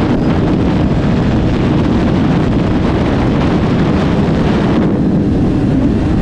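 Wind rushing over the microphone of a moving motorcycle, with a low engine drone underneath; the hiss eases slightly about five seconds in.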